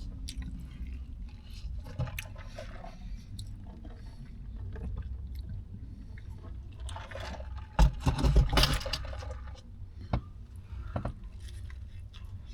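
Close-miked chewing of a sub sandwich: wet, squishy mouth sounds with scattered small clicks. A louder cluster of sharp knocks and rustling comes about eight seconds in.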